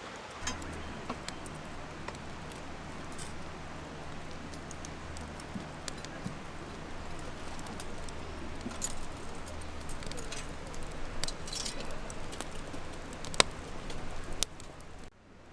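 Light clinking and small clicks of objects being handled, over a steady low hum; the sound cuts off abruptly just before the end.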